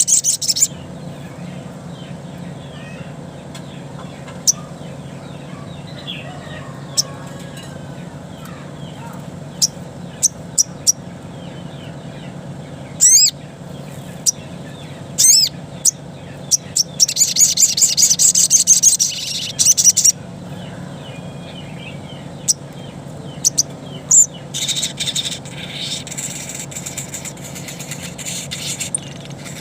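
Crimson sunbird (sogok ontong) song: sharp, high-pitched chirps and fast trills in bursts, with a long rapid trill about halfway through, over a steady low hum.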